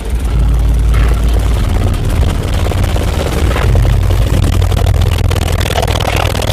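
Truck car-audio system of twelve 15-inch subwoofers playing very loud, deep bass, the low notes shifting a few times, with a gritty buzz above the bass.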